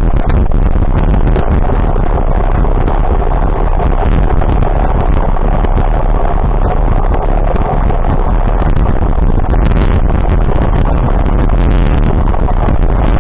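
A vehicle running, a loud, steady mix of engine and road noise with a heavy low rumble.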